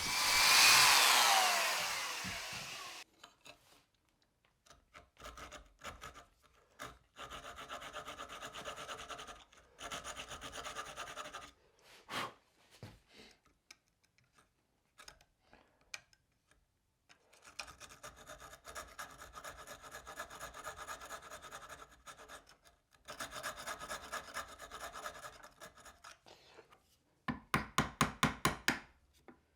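Keyhole saw cutting through a canary-wood plane body to widen the blade mouth, in runs of even back-and-forth strokes with pauses between them, faster and louder near the end. A loud sound falling in pitch over the first few seconds comes before the sawing.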